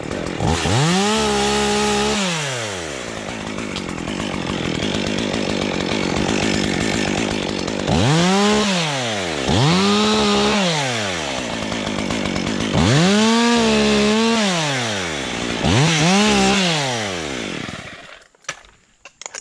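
Stihl MS 201 two-stroke top-handle chainsaw revving up to high speed and back down five times, running at lower speed between the revs, then shutting off near the end.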